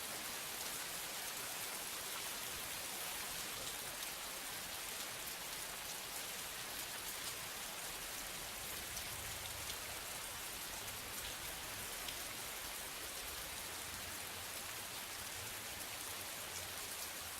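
Steady hiss of rain falling on a surface, with fine crackling throughout; it switches on and off abruptly.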